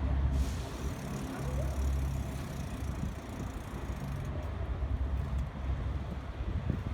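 Wind rumbling on the microphone of a rider on a BMX bike, with road and tyre noise from the ride; the rumble swells and fades in patches.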